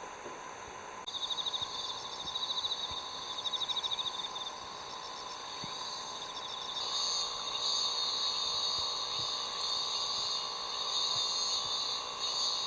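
Insects calling: high, pulsing trills from about a second in, then a steadier high-pitched drone that grows louder from about seven seconds in.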